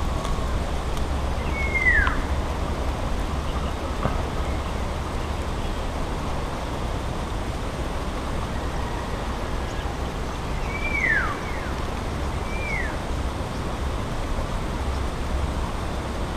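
A bird's descending whistled call, sounding once about two seconds in and twice more in quick succession around eleven and thirteen seconds, over steady outdoor noise with a low rumble.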